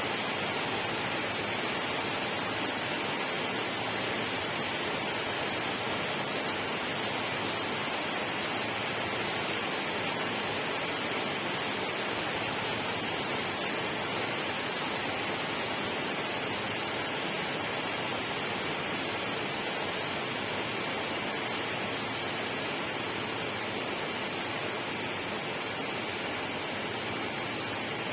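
Steady, unbroken rushing of water, even in level throughout, with a faint steady high tone running through it.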